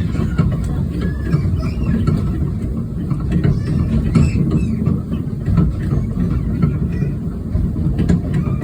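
Narrow-gauge train running, a steady low rumble of wheels on rail with a few brief clicks.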